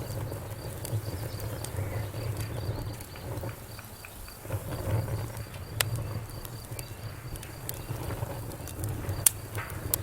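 Wood fire burning in a fireplace: a steady low rumble of flame with scattered crackles and pops, the sharpest about six seconds in and just past nine seconds.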